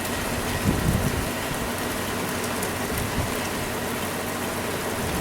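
Steady monsoon rain falling, an even hiss, with some uneven low rumbling underneath.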